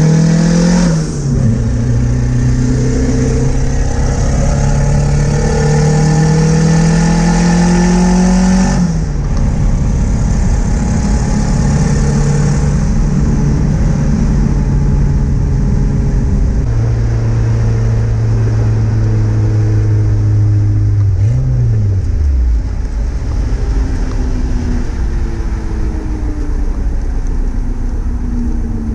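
Turbocharged Honda D16Z6 1.6-litre four-cylinder engine heard from inside the Del Sol's cabin under acceleration. Its note climbs steadily for several seconds and drops sharply about nine seconds in. Later it holds a steady note before the revs fall away, with road and wind noise throughout.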